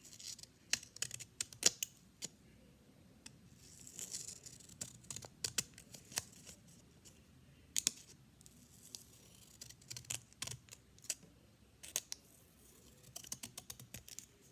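Scissors cutting paper: an irregular run of sharp snips, with a soft papery rustle at the start and again about four seconds in.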